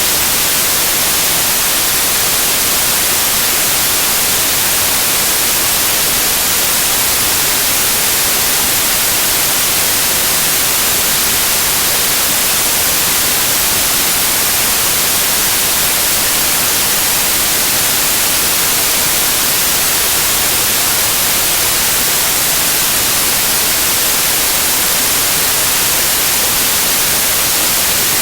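Loud, steady white noise: an even, unchanging hiss with no tones or events, strongest in the high frequencies.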